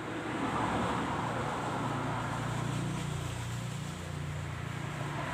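A motor vehicle engine running with a steady low hum under broad background noise that swells in the first second.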